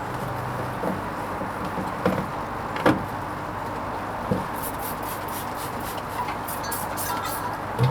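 Hoover Vision HVP16 washing machine running its gentle Silks 30 wash: a steady running noise with a few knocks about a second apart, then a string of short hissing rushes in the second half.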